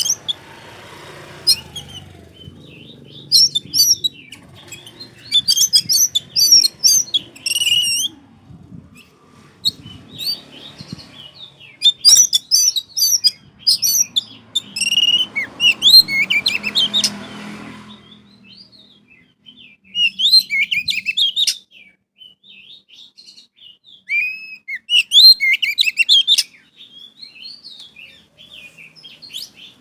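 Oriental magpie-robin (kacer) singing loud, varied phrases of whistles, chatters and trills, each a second or two long, broken by short pauses.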